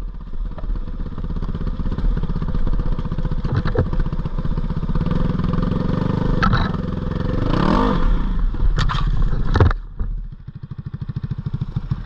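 Dirt bike engine running under throttle, revving up and back down about eight seconds in, with several sharp knocks and clatter. After about ten seconds it drops to a slower, quieter, even running.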